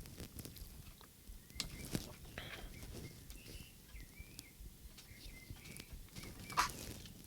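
Small scattered clicks and taps of a handheld radio transmitter's plastic case and parts being handled during disassembly, the sharpest click near the end. Faint short chirps sound in the background through the middle.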